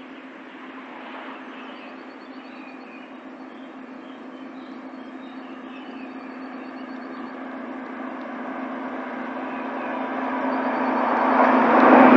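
A passenger train approaching on the near track and running past under the bridge, its rail and running noise building steadily to loudest near the end as it passes close by. A steady low hum runs underneath, and a bird trills briefly a few times.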